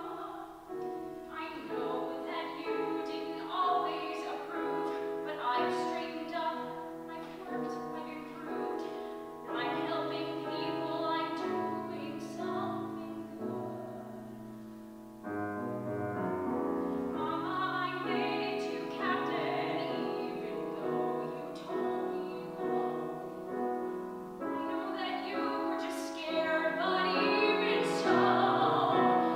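Musical-theatre singing with piano accompaniment. The music eases off briefly about halfway through and then comes back fuller.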